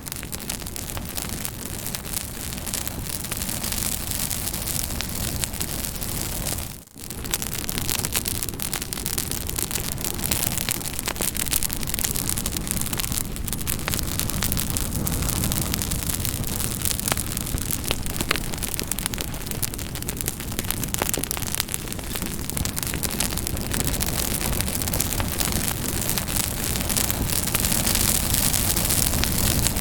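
Campfire burning: a steady hiss of flames with frequent sharp crackles and pops of burning wood. The sound briefly drops out about seven seconds in.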